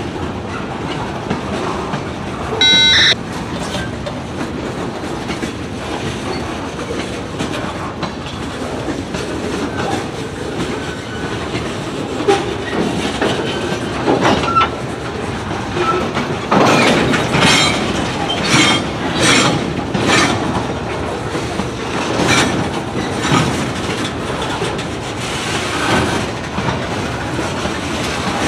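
Freight train rolling past with a steady rumble of cars and wheels clacking over the rail joints. The clacks come thick and loud in the second half. A brief high electronic tone sounds about three seconds in.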